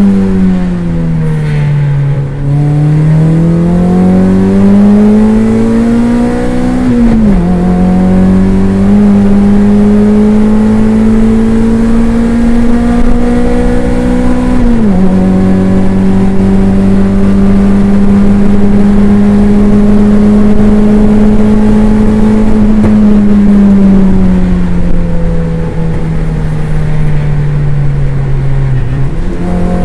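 Toyota MR2 race car's engine heard from on board, pulling up through the gears. The note climbs and drops sharply at upshifts about seven and fifteen seconds in, holds steady at high revs, then falls away as the car slows before rising quickly again near the end.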